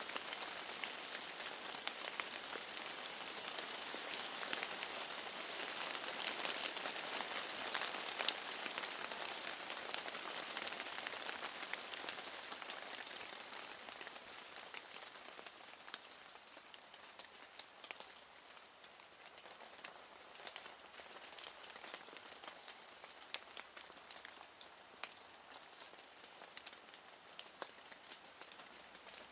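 Rain falling, a steady hiss with many separate drops ticking through it. It is heaviest over the first half, then eases off to a lighter rain where single drops stand out.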